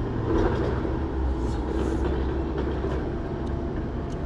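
Steady low rumble and hum of an idling vehicle engine, with a few faint light clicks.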